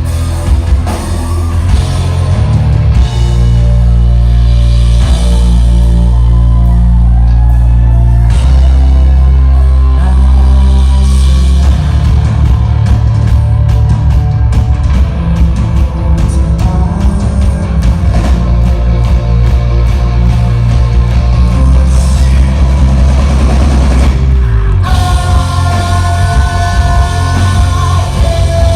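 Rock band playing live at full volume: distorted guitars, heavy bass and drums. About 25 seconds in the low end drops back and a few wavering held tones come forward.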